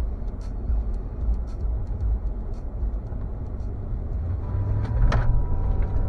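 A motor vehicle running, heard as a steady low rumble, with scattered light clicks and a single knock about five seconds in.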